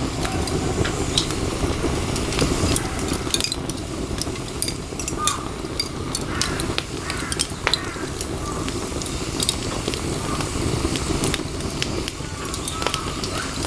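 Small wood fire crackling: scattered sharp pops and snaps over a steady low rushing.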